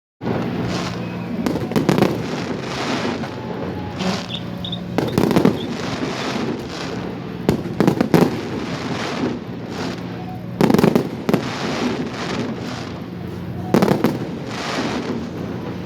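Fireworks display: shells bursting with loud bangs every two to three seconds, with crackling in between, over a steady low hum.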